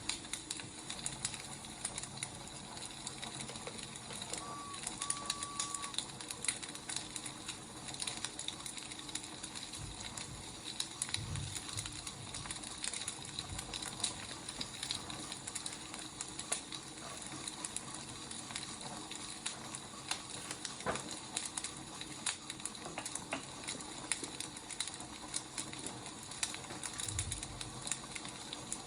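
Wood fire burning, with dense irregular crackles and pops over a soft hiss.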